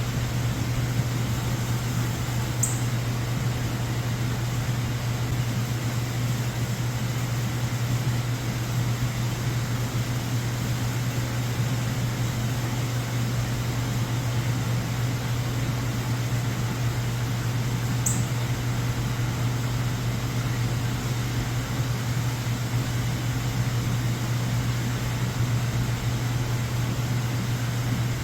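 Steady noise with a constant low hum, and two brief high chirps about fifteen seconds apart.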